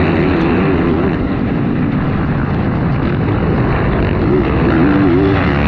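Motocross bike engines revving hard at race speed, several at once, their pitch wavering up and down.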